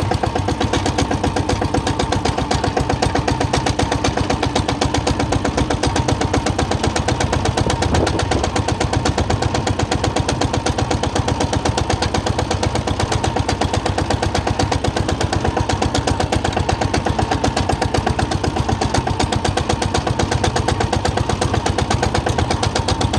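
Vehicle engine running steadily under way, heard from on board, with a fast, even beat of firing pulses.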